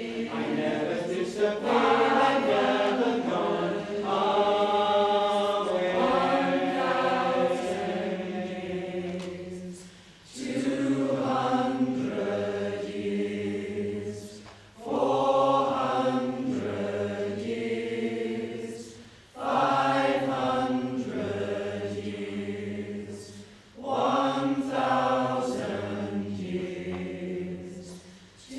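Choir singing slow, held phrases together, each lasting about four to five seconds, with short breaks for breath between them.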